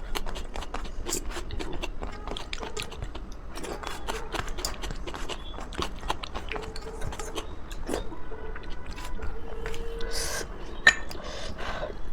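Close-miked chewing of a mouthful of food, with many small wet mouth clicks. One sharp, louder click comes near the end.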